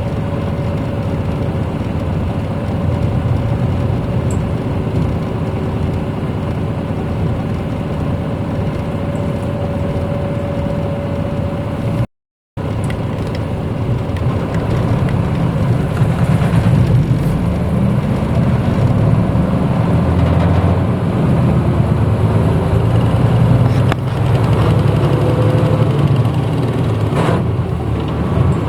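Hino Blue Ribbon bus's diesel engine heard from inside the cabin, running steadily with a faint whine, then, after a brief break in the sound, pulling harder with its pitch rising over several seconds as the bus accelerates.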